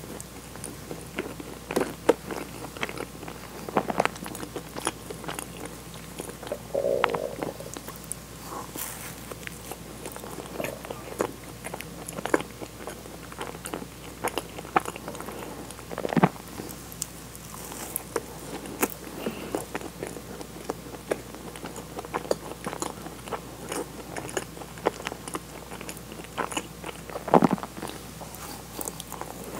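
Close-miked chewing and biting of a soft, sugar-dusted cream-filled donut: soft chewing with many small wet, sticky mouth clicks, now and then a louder one.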